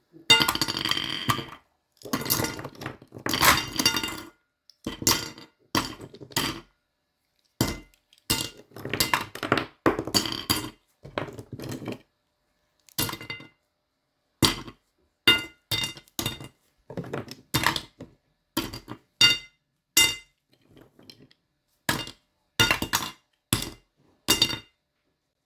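Miniature collectible toys being handled, their small hard pieces clicking and clinking against each other and a surface in quick irregular clusters, with brief pauses between.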